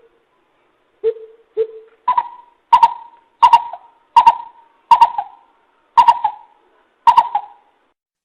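Coucal (bìm bịp) calling a series of deep, hollow hooting notes. Two lower notes come first, then about eight higher notes repeat at roughly two-thirds-of-a-second intervals.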